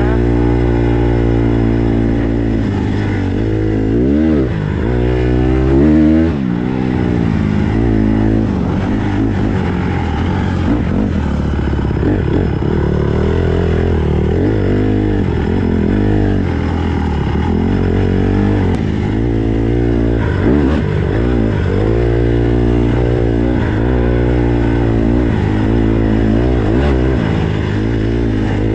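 Four-stroke single-cylinder dirt bike engine being ridden, its revs rising and falling repeatedly as it pulls through the gears, with two quick sharp blips about four and six seconds in.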